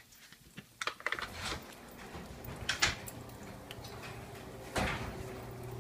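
A door being opened, with scattered clicks and knocks of its latch and handle: a cluster about a second in and single knocks later. A steady low hum sets in about a second in.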